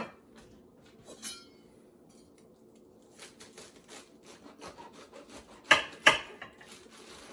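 Knife cutting lettuce: soft scraping strokes through the leaves, then two sharp chops close together about two-thirds of the way in.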